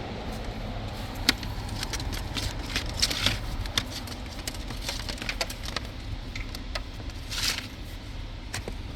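Hands working a wiring harness and trim in the firewall area: scattered light clicks, taps and a short rustle, over a steady low hum.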